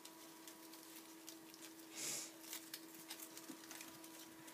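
Faint handling of ribbon and cardboard while tying a ribbon, with small scattered ticks and a short rustle about two seconds in, over a steady low hum.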